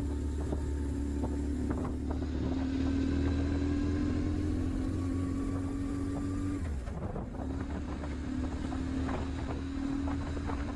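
BMW R1150 GS Adventure's boxer twin engine running under way, its note steady and creeping up in pitch. About six and a half seconds in the note drops away briefly, then picks up again.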